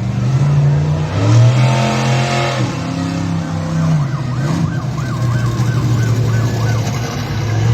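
Monster truck engine running loud and revving, its pitch stepping and sweeping up and down. From about five seconds in, a fast warbling siren-like wail sounds over it.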